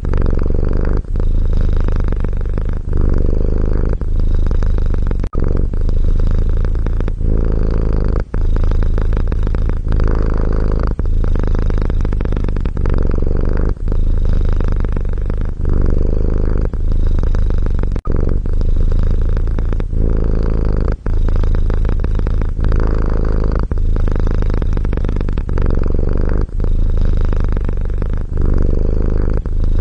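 A domestic cat purring steadily and close up. The low purr swells and fades with each breath, about once every second and a half.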